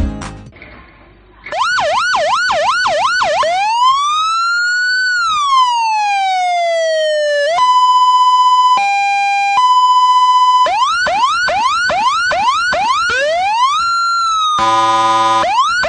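Senken YD-50A police motorcycle siren loudspeaker running through its tones. It starts with a fast yelp of about three sweeps a second, then gives one slow wail rising and falling. A steady tone follows, with a short drop to a lower tone in the middle, then the fast yelp again and a rising glide held high. Near the end comes a brief buzzy horn blast, then one more rising sweep.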